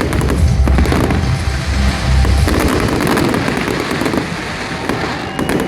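Fireworks display bursting and crackling over loud music, with many sharp bangs throughout; the music's deep bass stops about halfway through.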